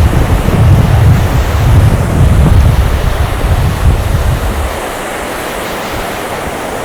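Sea surf washing onto a beach, a steady hiss, with wind buffeting the microphone in low gusting rumbles that stop about two-thirds of the way through.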